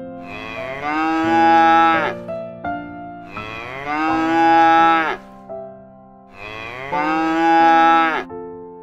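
Cow mooing three times, each a long call of about a second and a half that drops in pitch at its end, over soft background music of held keyboard notes.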